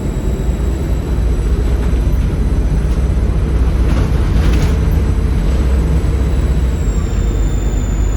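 Volvo B7RLE bus's 7.3-litre Volvo D7C diesel engine running hard, with a steady high turbo whistle above it that starts to fall in pitch near the end.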